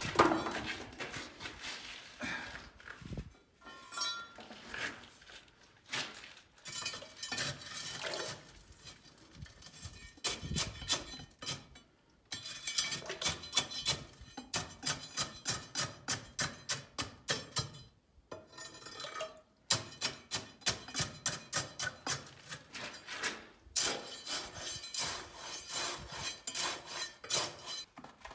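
Metal hand tools striking and scraping against stone and rubble, a series of sharp clinks that come in fast runs of about three strikes a second with short pauses between.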